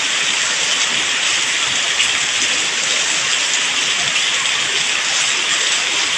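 Heavy tropical downpour: a steady, dense hiss of rain falling hard during a thunderstorm.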